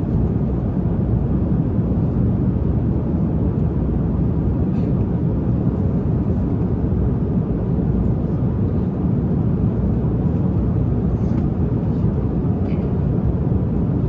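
Steady low rumble of an airliner cabin in flight, with a few faint light clicks.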